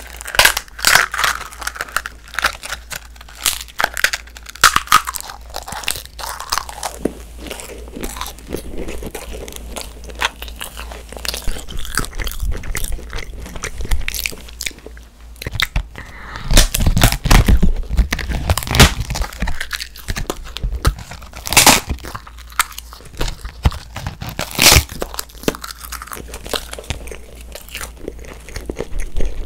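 Edible coloured paper being bitten and chewed close to microphones: a run of crunching bites and chewing, heaviest about halfway through, with a few sharp single bites after that.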